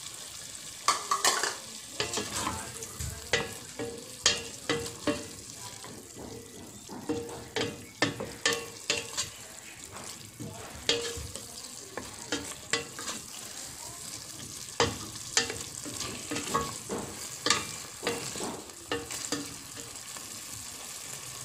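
Pork belly sizzling as it fries in a stainless steel pot, with a steady hiss. A wooden spatula stirs and scrapes against the pot, making frequent short, irregular knocks and scrapes.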